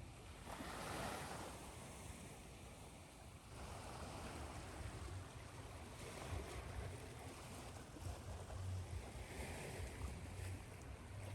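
Ocean surf washing in and out, a soft hiss that swells about half a second in and again from about three and a half seconds, over a low rumble.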